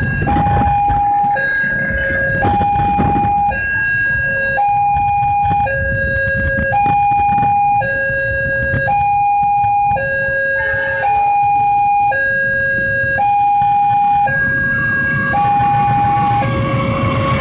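Railway level-crossing warning alarm sounding a two-tone high-low signal, each tone held about a second and repeating steadily, which warns that a train is approaching. A low rumble runs underneath.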